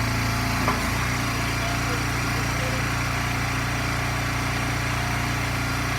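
Small gas engine of a hydraulic firewood splitter running steadily, with one short knock under a second in.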